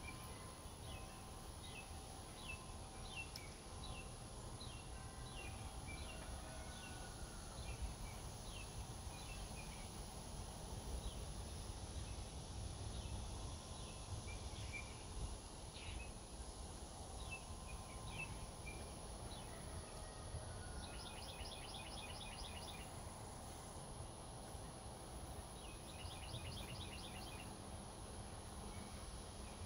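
Birds calling outdoors: a run of short, falling chirps, roughly two a second, through most of the first twenty seconds, then two brief rapid trills, over a low rumble.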